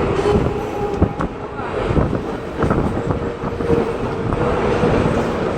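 Mumbai suburban electric local train running, heard from on board: continuous rumble and rattle of the wheels on the track, with wind buffeting the microphone and a steady humming tone. A few sharp knocks from the track come about a second in and again between two and three seconds.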